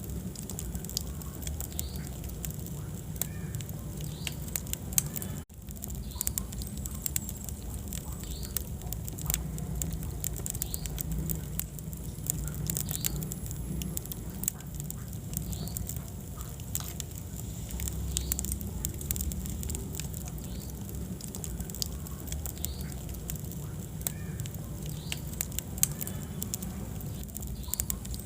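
Wood fire burning in a fireplace: frequent sharp crackles and pops over a steady low rumble of flames, with a split-second gap about five seconds in.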